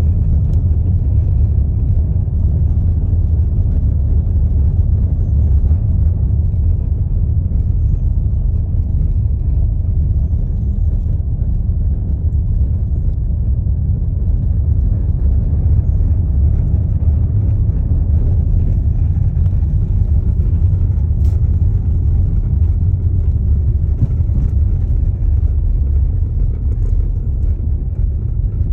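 Steady low rumble of a TOGG T10X electric SUV driving along: tyre and road noise with no engine note.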